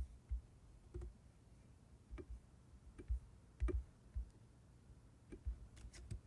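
Scattered computer mouse and keyboard clicks, about a dozen short irregular clicks, some coming in quick pairs, as parts are moved and rotated in slicer software.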